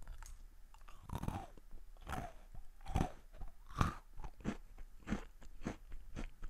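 Close-miked chewing of a crisp Hangul-letter-shaped snack cookie: several loud crunches in the first four seconds, then quicker, softer chews.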